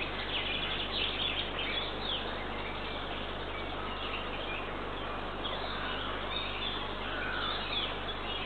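Songbirds chirping and singing over a steady hiss of background noise, with a cluster of short chirps in the first two seconds and a single gliding call near the end.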